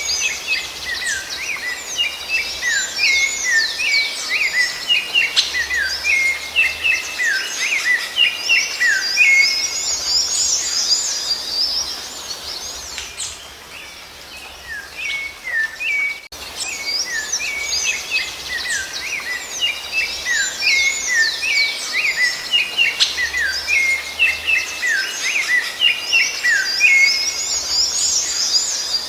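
Rufous-bellied thrush (sabiá-laranjeira) song: a dense run of quick whistled and chirping notes that thins out for a few seconds about halfway, then starts up again abruptly.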